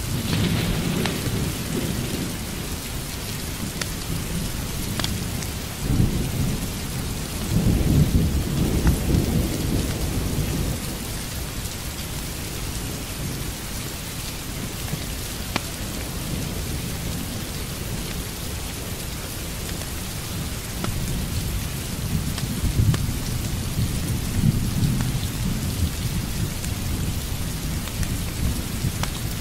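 Steady rain with rolling thunder: low rumbles swell right at the start, again from about six to ten seconds in, and once more past twenty seconds, over the constant hiss of the downpour.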